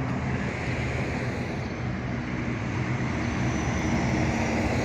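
A motor vehicle engine running at a steady speed, over a haze of road traffic noise.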